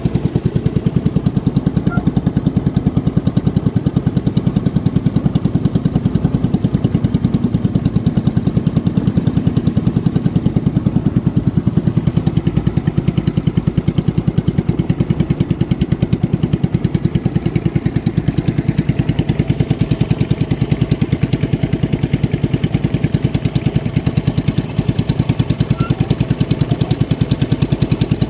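Boat engine running steadily at an even speed, with a fast, regular beat.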